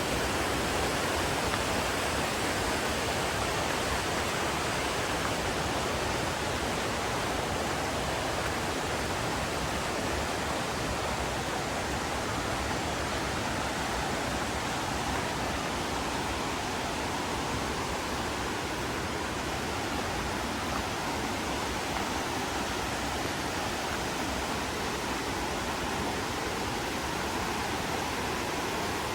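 Mountain river rushing over rocks: a steady, dense roar of flowing water.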